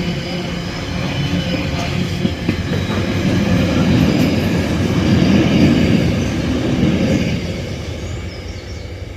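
Freight train wagons rolling past on the rails: a heavy rumble of wheels with high, steady squealing from the wheels. It is loudest about halfway through and fades near the end as the train draws away.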